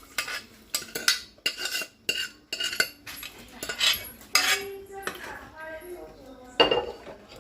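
Metal spoon clinking, knocking and scraping against a metal cooking pot as cooked mutton is spooned into the pan of fried masala: a quick run of irregular clinks, some ringing briefly, with a louder knock near the end.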